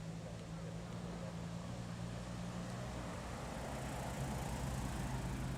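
Car engines running at low revs as cars pull away slowly, with one engine note giving way to another about three seconds in and getting a little louder.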